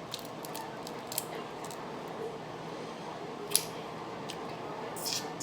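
Eating seafood close to the microphone: a few short sharp clicks and crackles over a low steady background, the loudest about three and a half seconds in and a small cluster near the end.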